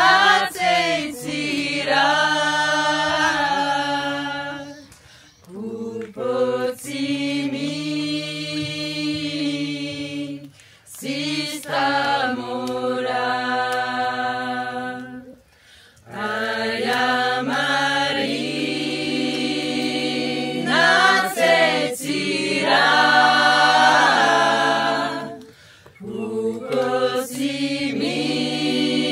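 A group of voices singing together unaccompanied, in sung phrases broken by short pauses.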